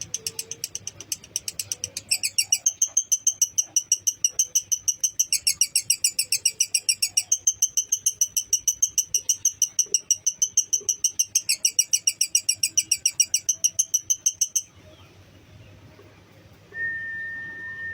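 Lovebird's long 'ngekek' trill: a fast, even run of high, sharp chirps, several a second, that grows louder after a couple of seconds, carries on for about twelve seconds and stops abruptly. Near the end a single steady whistle-like tone sounds for about two seconds.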